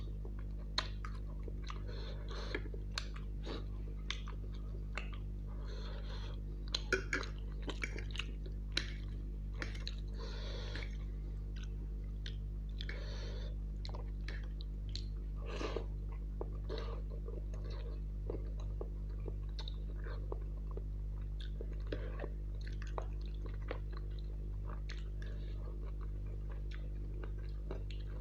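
Close-miked chewing of a mouthful of saucy instant noodles and chicken: uneven wet mouth smacks and clicks, with a few longer wet sounds around the middle. A steady low electrical hum sits beneath it.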